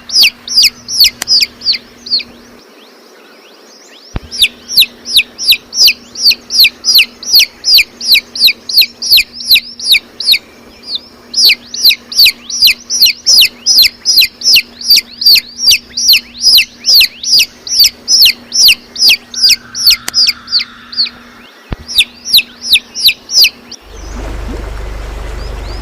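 A bird calling over and over with short, high, falling chirps, about three a second, pausing briefly once near the start. Near the end the chirping stops and a steady low sound, likely music, takes over.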